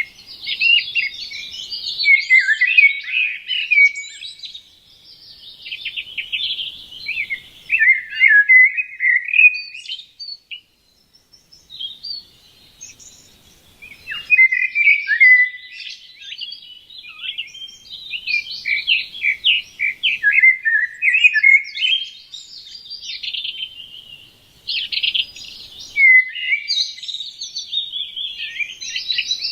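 Small birds chirping: a busy, rapid stream of short high chirps from several birds, easing off briefly about ten seconds in and then picking up again.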